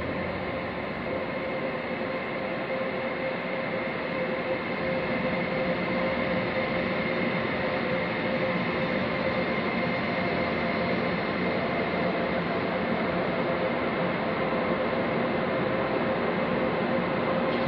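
Steady hum of trains in a railway station, with a few held electrical tones over a noisy rumble. It slowly grows louder as a train approaches the platform.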